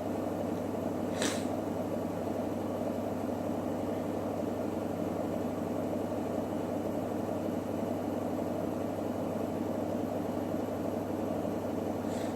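Electrolux WD41A84160 washing machine running steadily, with an even motor hum and drum noise through its rinse-and-spin programme. A brief high hiss comes about a second in and again right at the end.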